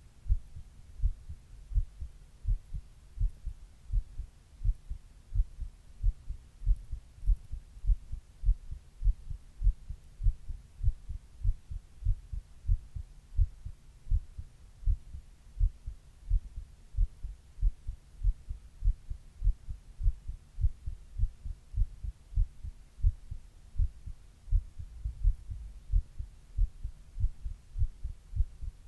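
A person's own heartbeat: low, muffled beats repeating in a steady, even rhythm.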